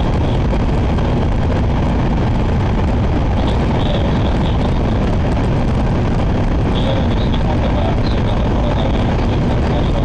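Shinkansen bullet train running at speed, heard from inside the passenger car: a steady low rumble and rushing noise, with a faint high whine that comes and goes.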